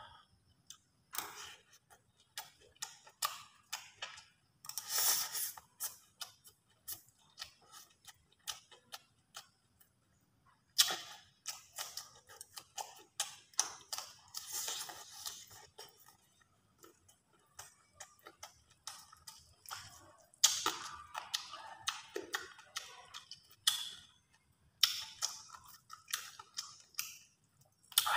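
Close-up eating sounds: chewing and lip smacks heard as a long run of irregular clicks, with several louder, denser clusters, as rice, grilled fish and raw cucumber are eaten with a spoon and fingers.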